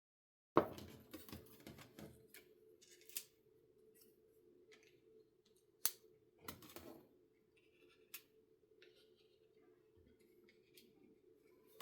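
Bird-shaped cardstock die cuts and metal cutting dies being handled, with paper rustling and several sharp clicks. The sound starts abruptly about half a second in.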